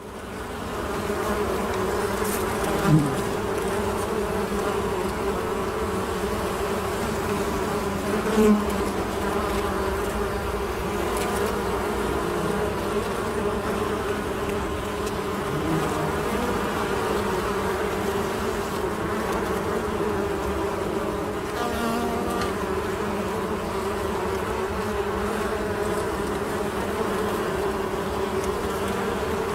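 A mass of honey bees buzzing in a steady, dense drone that fades in over the first second. Single bees swell louder as they pass close, about 3 s and 8.5 s in.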